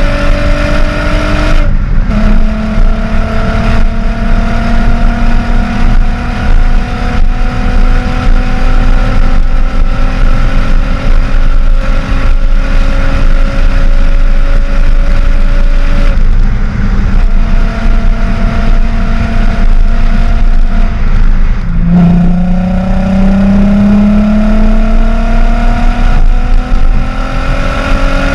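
Exhaust of a 12-valve VR6 VW GTI through a Techtonics cat-back with a Magnaflow muffler, pulling through the gears under light throttle. The engine note climbs slowly in pitch and drops at each upshift, about two seconds in and again about three-quarters of the way through.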